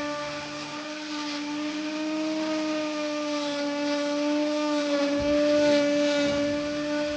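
Small handheld electric polisher motor running with a steady hum, its pitch wavering slightly as it buffs the paint; around five seconds in, extra rubbing noise joins it as the pad presses on the body.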